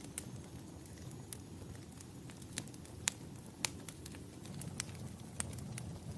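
Wood fire crackling in a fireplace: irregular sharp pops and snaps, the loudest around the middle, over a steady low rumble of the burning fire.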